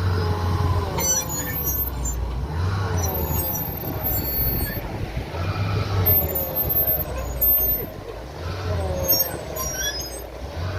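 Heavy diesel excavator engines working under load, surging in repeated pulses about every three seconds, with voices shouting over them.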